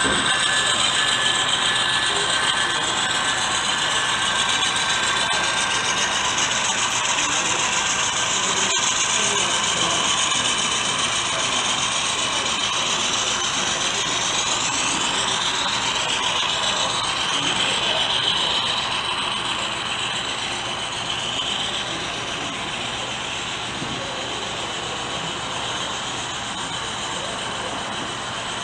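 HO scale model train running: a steady mechanical whirr of the locomotive's motor and gears with the clicking of small wheels on track. Its whine shifts up and down in pitch about halfway through.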